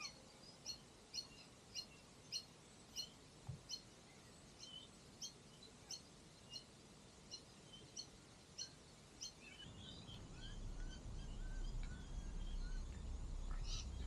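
A bird repeating a short high chirp about twice a second, with other bird calls joining near the end. A low rumbling noise rises over the last few seconds.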